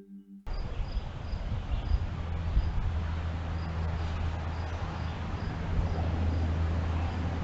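A cricket chirping steadily, short high chirps about twice a second, over a steady low hum.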